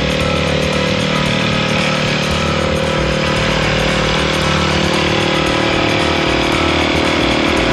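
Motocross bike engine running steadily, a continuous buzzing drone with no clear revs or changes.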